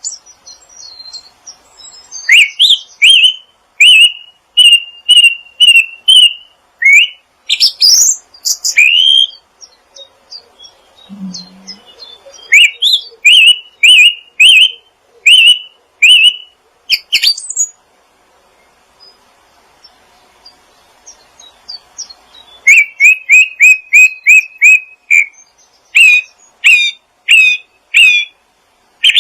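A small songbird singing close by: phrases of loud, sharp, repeated chirps, about two a second, broken by pauses of a few seconds, with fainter high twittering between them.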